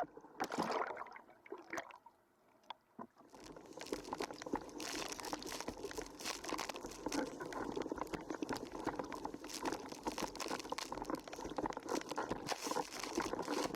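Water splashing and fizzing around a windsurf board planing at speed, with dense small crackles of spray. It starts about three seconds in, after a brief near-silent gap.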